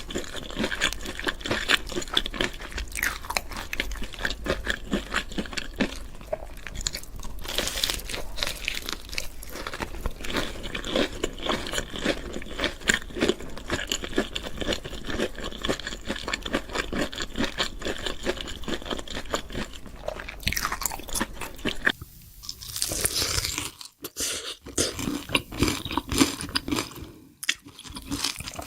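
Close-miked chewing of crunchy food: a dense, irregular run of crunches with bites between them, easing off briefly near the end before the chewing resumes.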